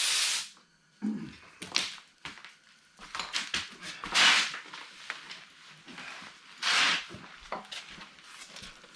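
Scattered clicks, knocks and rustles of hands and metal tools at work on a lawnmower, with two brief louder noisy bursts partway through.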